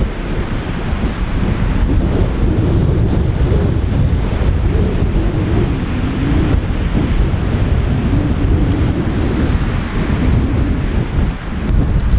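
Strong gusty wind buffeting the microphone on an exposed mountain saddle, a heavy low rumble that swells and dips with the gusts.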